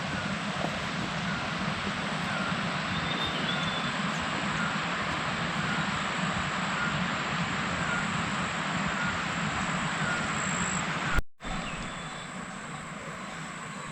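Heavy rain falling steadily, an even rushing noise. There is an abrupt cut about eleven seconds in, after which the rain carries on a little quieter.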